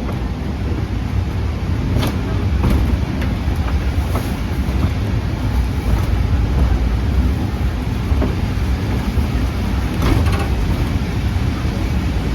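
Steam train climbing a steep 5% grade, heard from aboard: a steady low rumble of the train working uphill, with a few sharp knocks, at about two seconds in and again near ten seconds.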